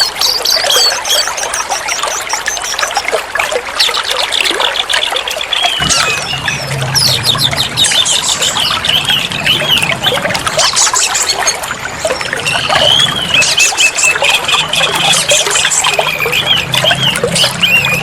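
Oriental magpie-robin (kacer) singing a fast, varied stream of chirps and warbles over the steady rush of running water.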